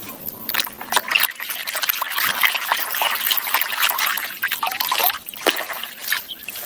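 Water trickling and splashing in many small, irregular spatters, as when water is poured over a muddy toy truck to rinse it.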